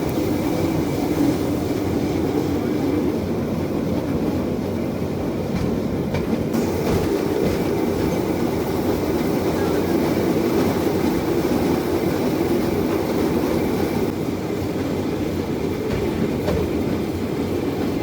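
Rail bike's steel wheels rolling steadily along the rails, a continuous running noise with no break.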